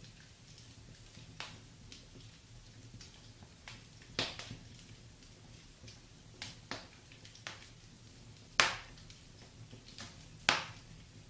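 Wood fire crackling in a fireplace: scattered sharp pops of varying size over a low steady rumble, the loudest pops about four, eight and a half and ten and a half seconds in.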